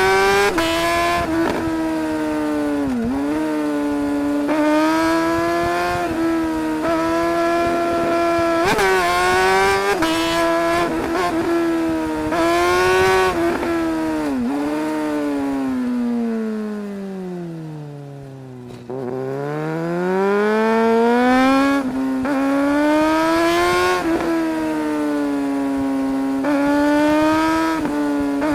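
Suzuki GSR 600 inline-four engine pulling hard up the rev range, its pitch climbing and then dropping sharply at each gear change. About two-thirds of the way through it winds down on closed throttle, falling steadily in pitch and getting quieter, then picks up again and pulls through the gears once more.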